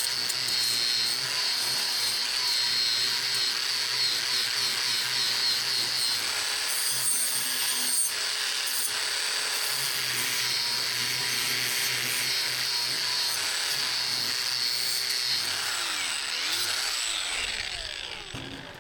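Electric power tool running under load, a steady high whine over a grinding noise, its pitch wavering as it is pressed into the work. Near the end it is switched off and winds down, the pitch falling and the sound fading.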